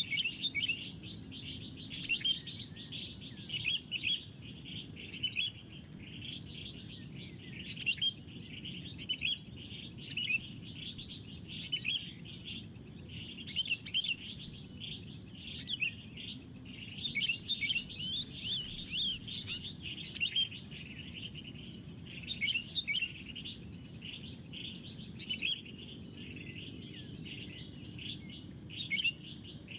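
Small birds chirping, many short high calls in quick succession, with a thin, high, evenly pulsing insect trill through the middle of the stretch and a low steady background noise.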